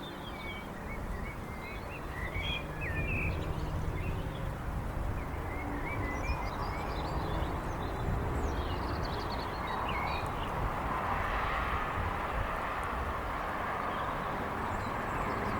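Songbirds chirping and twittering over a steady low rumble of vehicle engines, with a broad hiss swelling from about ten seconds in.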